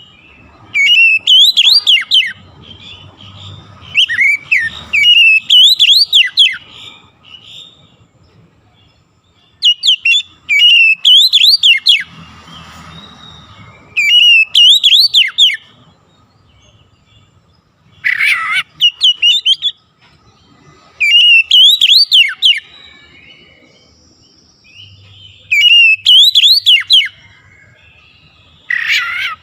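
A goce songbird singing loud, shrill phrases of quick rising and falling whistled notes. Each phrase lasts a second or two and repeats every few seconds, about ten times.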